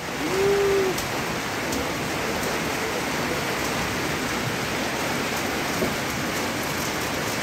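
Steady rain falling, an even hiss of rain on surfaces, with a brief tone about half a second in.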